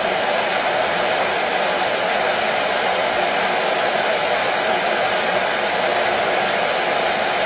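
Washing machine running with a steady, even whirring rush that does not change.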